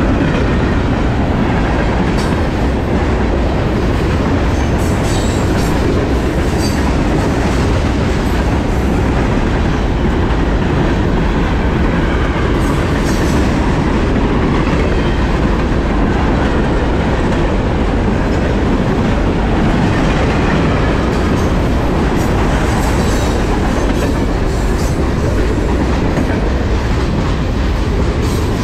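A train rolling past close by: a steady, loud rumble of wheels on rail with a clickety-clack from rail joints and occasional faint high wheel squeals.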